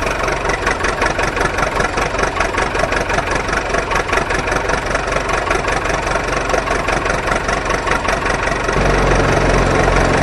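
Engine idling with a rapid, even chugging beat. About nine seconds in it changes to a deeper, steadier drone.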